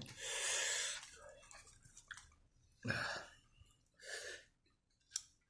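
A person breathing hard through the mouth from the burn of a very hot sauce: one long, hard exhale, then two shorter breathy puffs about two and three seconds later.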